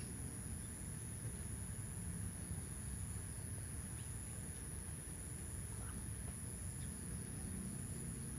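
Outdoor rural ambience: a steady high-pitched insect drone over an even low rumble, with a few faint short chirps.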